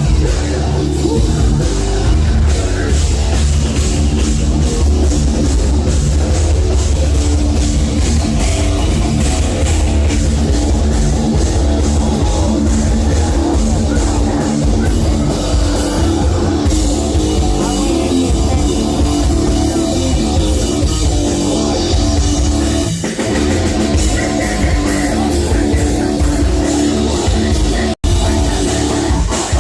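Live heavy metal band playing loud and dense, with distorted guitars and a drum kit. The sound cuts out for an instant near the end.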